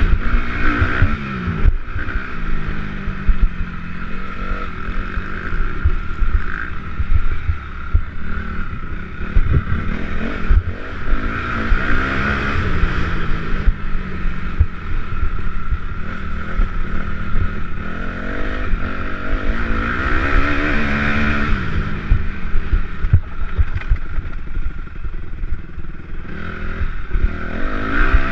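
Motocross motorcycles racing around the track, their engines revving up and falling back as they pass, with several engine pitches rising and falling at once and louder swells as bikes come close.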